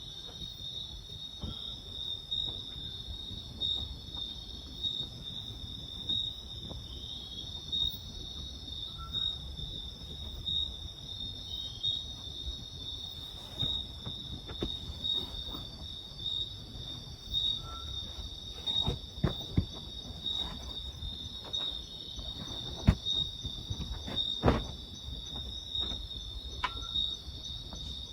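A steady, high-pitched, pulsing insect chorus in the forest. Scattered sharp clicks and knocks come in over it, more often and louder in the second half.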